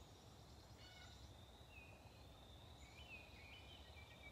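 Near silence in woodland: faint wild birds give short chirps and whistles scattered through, over a thin steady high tone and a low outdoor rumble.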